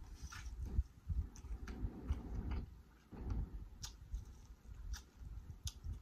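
Close-miked chewing and biting of sauce-coated corn on the cob: irregular wet mouth sounds with scattered sharp clicks.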